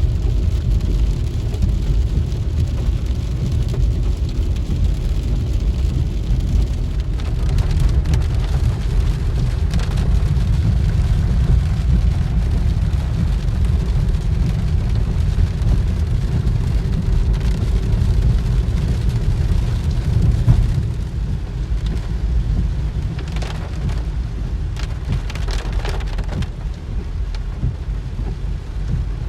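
Heavy storm rain with a steady deep rumble underneath.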